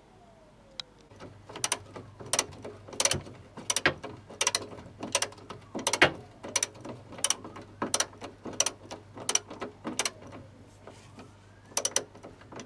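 Hand ratchet wrench tightening bolts on a car's underside: a sharp ratcheting click on each stroke, about one and a half strokes a second, pausing briefly before a last few strokes near the end.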